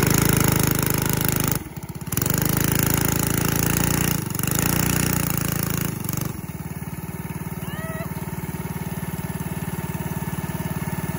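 A 212cc single-cylinder go-kart engine running under throttle, backing off sharply for a moment about two seconds in and dipping again around four seconds, then settling to a lower steady idle about six seconds in.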